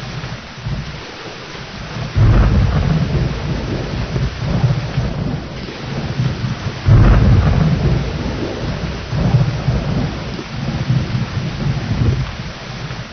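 Steady rain with rolling thunder: deep rumbles come in suddenly about two seconds in and again about seven seconds in, each fading slowly under the hiss of the rain.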